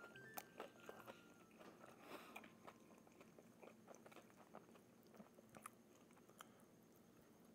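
Faint chewing with small irregular crunches: a person eating a fried chicken sandwich with crispy breading.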